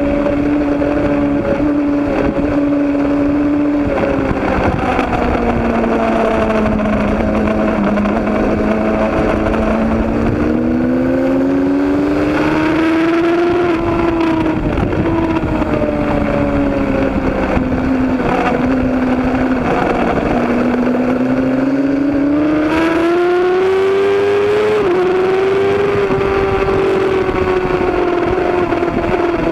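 Road-racing motorcycle engine running hard without a break, its pitch rising and falling slowly over several seconds at a time, with a brief sharp dip near the end.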